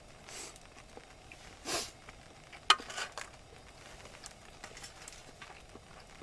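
Campsite cooking handling sounds: scattered small clicks and crackles, a brief rustle, and one sharp clink nearly three seconds in, the loudest event.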